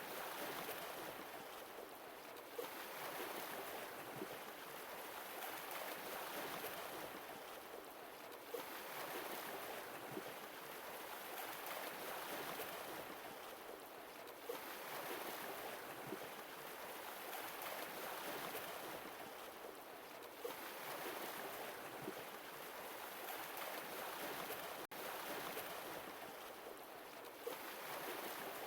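Sea waves washing onto a shore, the surf swelling and falling back in slow surges about every six seconds.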